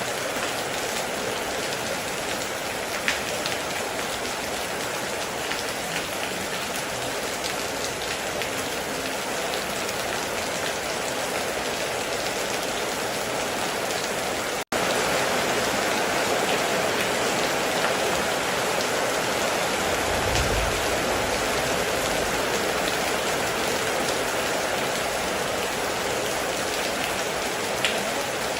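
Heavy rain pouring steadily, with a few distinct drop ticks. It cuts out for an instant about halfway and resumes slightly louder, and a brief low rumble comes about two-thirds of the way through.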